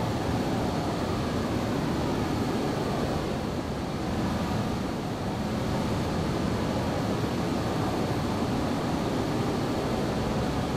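Steady rushing noise of a Boeing 737-800 on its landing approach: its CFM56 engines and the airflow, with a faint high steady whine over the top.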